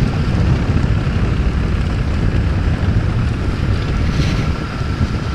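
Wind buffeting an action camera's microphone as a 125cc pit bike rides along, a steady low rumble with the engine running faintly underneath.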